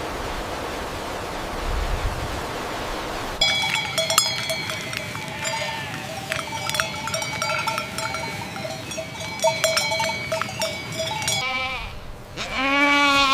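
A steady rushing noise, then livestock bells clanking and ringing at several fixed pitches for about eight seconds, then a single bleat near the end.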